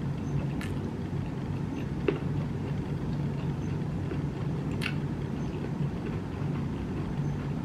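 A person chewing a mouthful of rice with fried tofu and shrimp, with a few light taps of wooden chopsticks on the rice bowl, over a steady low hum.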